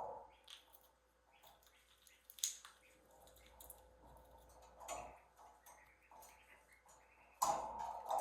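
Ringneck parrots moving about a cage: scattered faint clicks and taps, then a louder harsh squawking burst near the end.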